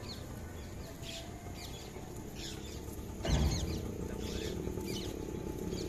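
Small birds chirping repeatedly over a faint background hum, with a brief low thump about three seconds in.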